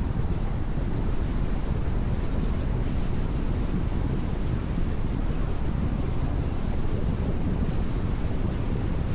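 Steady driving noise of a car cruising on a rain-wet expressway: tyre hiss and road rumble with wind over the car, even throughout.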